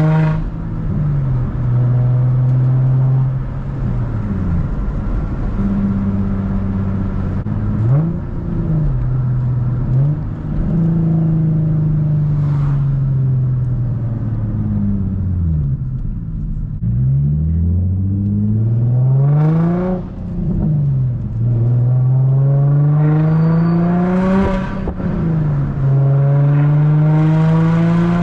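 Infiniti G35's 3.5-litre V6 running through an exhaust with the muffler and resonator deleted, pulling up through the gears of its 6-speed manual: the engine note climbs and drops sharply at each upshift, several times over. In the middle it falls slowly as the car eases off.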